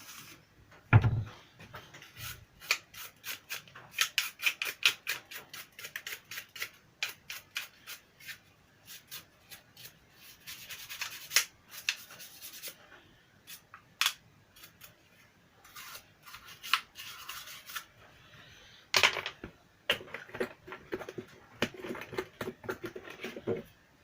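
A quick series of small sharp clicks and scrapes, several a second, from small parts and tools being handled on a workbench, with a louder knock about a second in.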